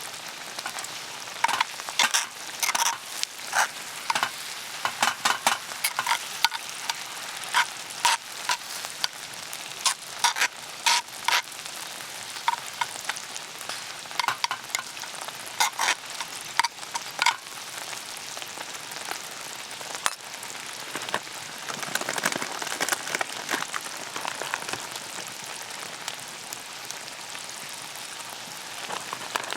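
Monjayaki frying on a hot iron griddle: a steady sizzle broken by many sharp clicks and taps over the first two-thirds. The sizzle swells louder about 21 seconds in.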